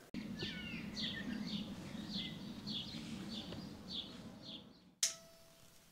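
A small bird chirping over and over in short falling notes, about two a second, over a low steady hum; the sound cuts off suddenly with a click near the end.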